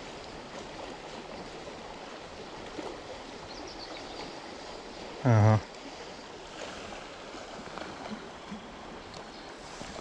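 Steady rush of flowing river water, with a few faint high bird chirps.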